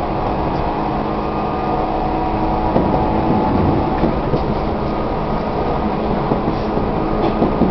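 Tobu 1800 series electric train running at speed, heard from inside a passenger car: a steady rumble with level motor tones. A few short knocks come through around the middle and near the end.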